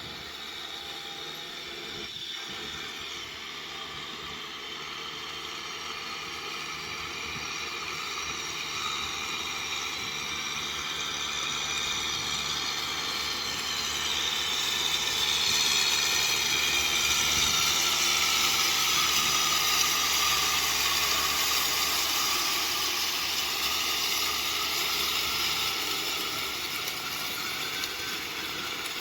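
Kubota M6040SU tractor's diesel engine running steadily while pulling a rotavator, with a broad hiss over it. The sound grows louder toward the middle and fades a little near the end, as the tractor comes closer and moves away again.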